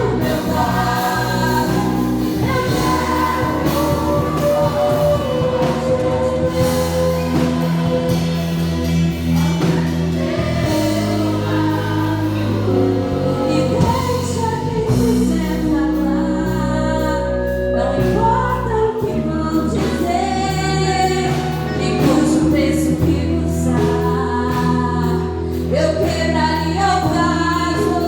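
Gospel worship music: a group of voices singing a praise song over sustained bass and keyboard-like accompaniment.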